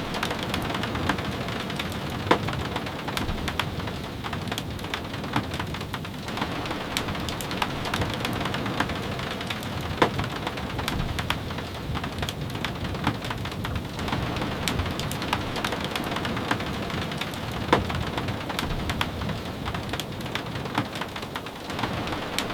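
Steady rain with many sharp ticks and taps of drops scattered through it, three of them clearly louder.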